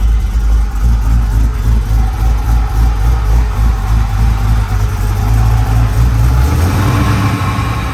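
LS 408 stroker V8 with a stage 3 camshaft idling on its first start-up, running loud and steady. Its note shifts about six and a half seconds in.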